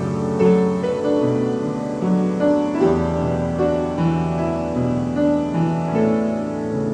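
Piano playing a slow, gentle melody over sustained chords, with a deep bass note coming in about three seconds in.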